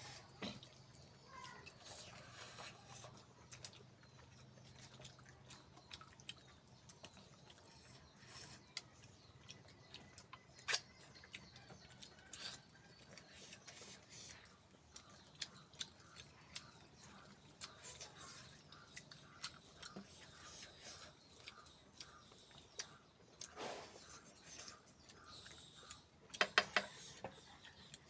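Close-miked chewing and mouth sounds of someone eating pork feet with rice: scattered soft smacks and clicks, with a louder cluster near the end.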